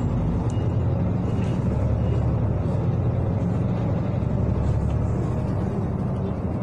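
Steady engine and road rumble heard from inside a moving city bus.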